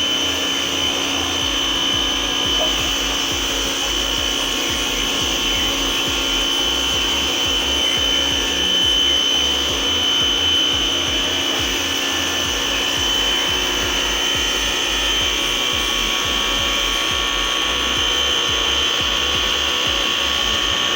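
Tecna electric pressure washer running steadily under load, its motor giving a constant high whine over the hiss of the high-pressure fan jet spraying water.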